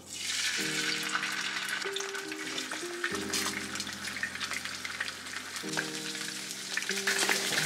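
Coho salmon fillets frying in hot oil in a pan: a steady crackling sizzle that starts suddenly as the first fillet goes into the oil.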